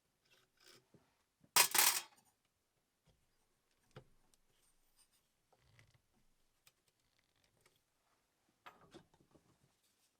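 Handling noises of small parts and tools: light clicks, knocks and rubbing, with a louder scraping rattle about two seconds in and a short cluster of clicks near the end.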